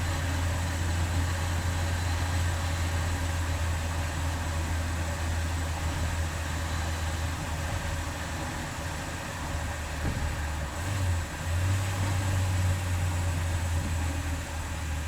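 Renault 19 petrol engine idling steadily, with a brief wobble in its note about ten to eleven seconds in.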